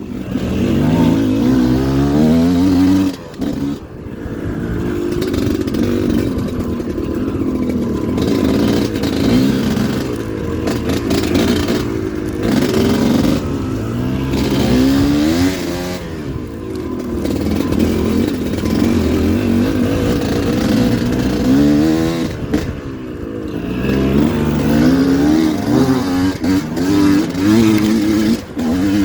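Dirt bike engine revving on a motocross ride, its pitch repeatedly climbing as the throttle opens and dropping off between pulls, with a few short dips in the engine's sound.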